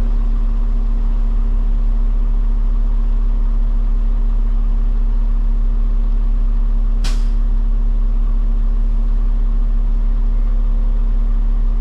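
Peterbilt 589 dump truck's diesel engine idling steadily, a constant low drone with a steady hum. About seven seconds in, a short sharp hiss of air.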